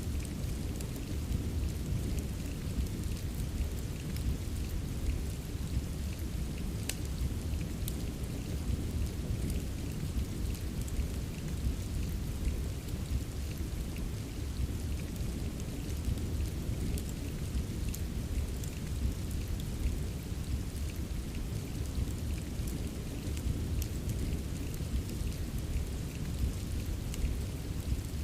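Steady soft rain mixed with a fireplace: a constant low rumble under a high hiss, with scattered small crackles.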